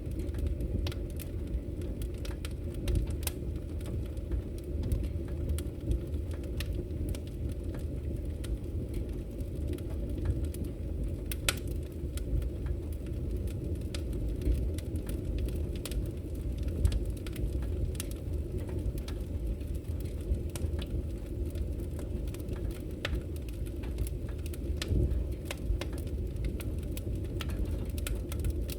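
Wood fire burning in a fireplace: a steady low rumble of flames with frequent small, sharp crackles and pops at irregular intervals.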